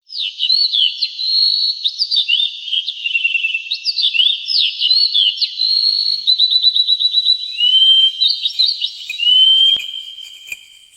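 Songbirds singing: a busy stream of high whistled chirps, quick trills and slurred notes, fading out near the end.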